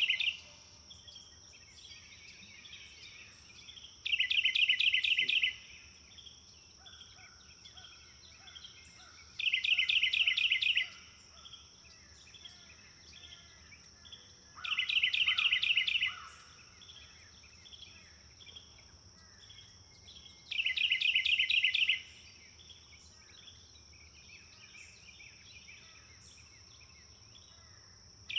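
A songbird repeating a loud, rapid trill about a second and a half long, four times at intervals of five to six seconds, with softer chirps from other birds in between. A steady high-pitched whine runs underneath.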